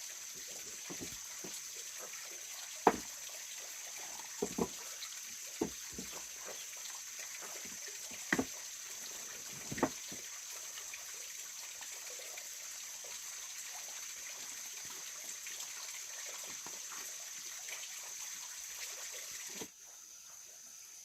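Water trickling steadily, with a few short sharp splashes or knocks in the first half. The steady sound cuts off suddenly near the end.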